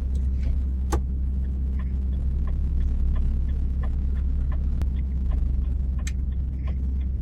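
Steady low rumble of a Renault truck heard from inside its cab on the move. Faint light ticks come about every half second, with a few sharper clicks among them.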